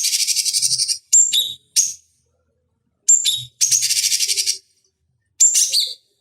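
Cucak cungkok songbird singing: rapid, rough, high-pitched chattering phrases, several opening with a short whistled note that drops in pitch. The phrases come in bursts of under a second to about a second, separated by brief pauses.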